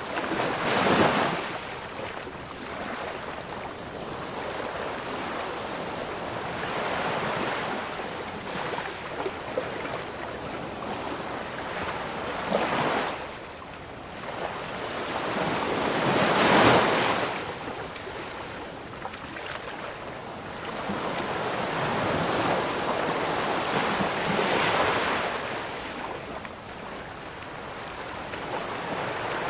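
Ocean waves breaking and washing on a shore, a steady surf wash with a few louder waves about a second in, about 13 and 17 seconds in, and near 25 seconds, each swelling and fading over a couple of seconds.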